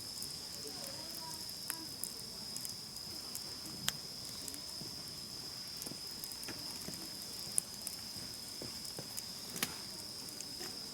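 Wood campfire crackling, with scattered sharp pops, the loudest about four, seven and a half and nine and a half seconds in. Under it runs a steady high-pitched trill of crickets.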